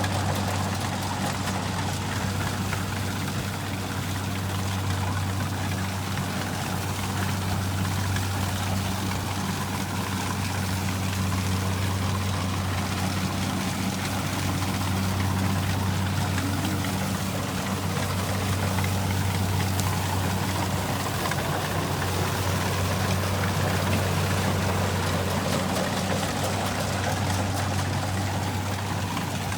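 Kubota rice combine harvester's diesel engine running steadily, a constant low hum over a broad mechanical rush.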